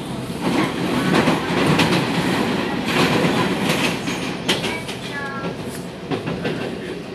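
Taiwan Railway local commuter train carriage in motion, heard from inside: a steady running rumble and rattle, with the wheels clacking over rail joints.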